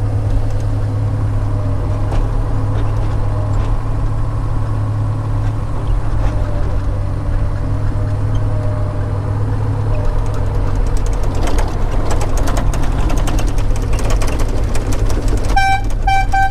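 Heavy logging machine's engine running steadily with a low drone, with clanking and rattling picking up about eleven seconds in. Near the end come three short, high-pitched horn beeps in quick succession.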